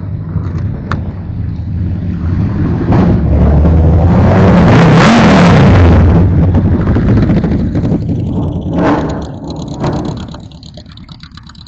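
A car's engine and exhaust driving past close by: it grows louder, is loudest for a few seconds in the middle, then fades away.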